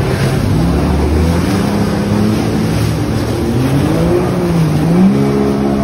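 Personal watercraft (jet ski) engine running under throttle over rushing wind and water noise, its note rising and falling.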